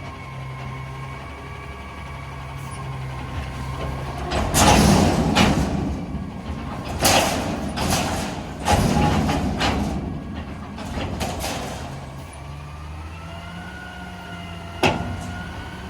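Garbage truck working: its engine runs steadily while several loud clattering crashes come in the middle, as refuse is dumped into the hopper. Later the engine's pitch rises, and one sharp knock follows near the end.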